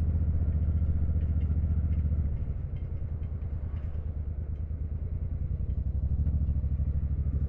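Custom motorcycle engine running at highway cruising speed, a dense steady pulse of firing strokes with road and wind noise. It eases a little about two seconds in and picks up again near the end. Faint scattered ticks ride over it, a strange noise that the rider takes for small stones off the asphalt, or perhaps something loose on the bike.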